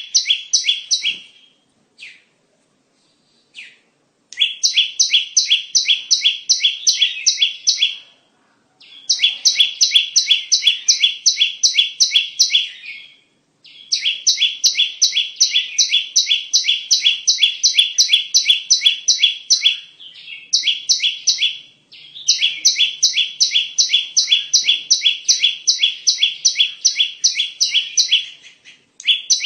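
Bar-winged prinia (ciblek) calling: fast runs of sharp, evenly repeated chirping notes, several a second, broken by short pauses. This is a lure call used to draw wild ciblek in for trapping.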